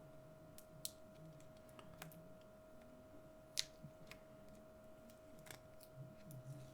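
Small items being handled: a few faint, scattered clicks and taps, the sharpest a little past halfway, over a steady faint hum.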